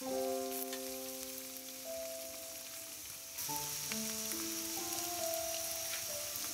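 Eggs and shredded vegetables sizzling in a hot wok, a steady hiss that grows louder about halfway through, with soft background music.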